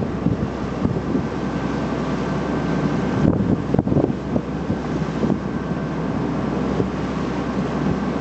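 Wind buffeting the microphone over the steady drone of a passenger boat's engine, with stronger gusts a little after three seconds in.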